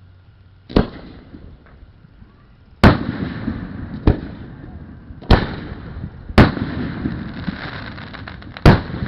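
Aerial fireworks shells bursting: six sharp bangs a second or two apart, with the first coming alone and the rest running together into a lingering rumble between them.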